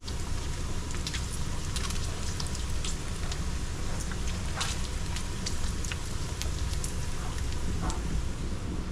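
Bacon sizzling on a griddle, with frequent sharp pops of spitting fat over a low steady rumble.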